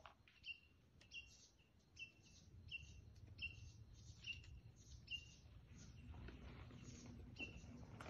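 A bird in the woods repeating a short, faint chirp that drops in pitch, about one call every half second to second, with a short pause near the end.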